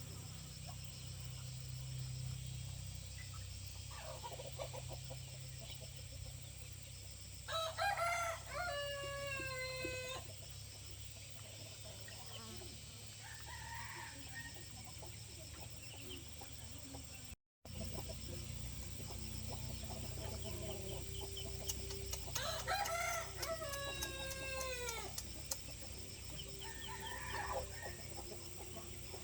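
Rooster crowing twice, each crow a long call that falls in pitch at the end, with shorter hen clucks in between.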